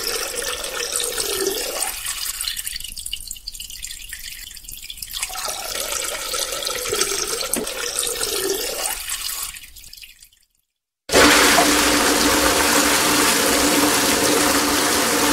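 Water running and trickling, fading out about ten seconds in; after a second of silence a louder, steady rush of water starts.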